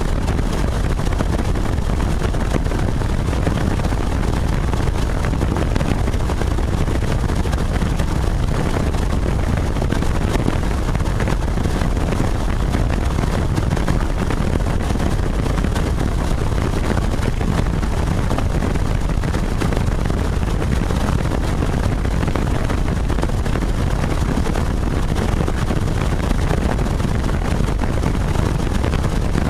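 Helicopter in flight: a steady, loud drone of engine and rotor with wind rush, unchanging in level.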